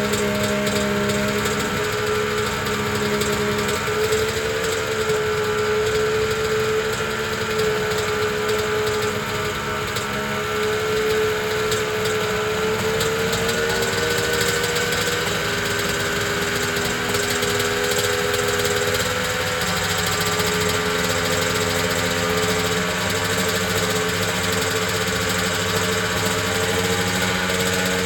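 1983 Honda NS500 two-stroke V3 Grand Prix engine idling steadily, its pitch drifting slightly up and down.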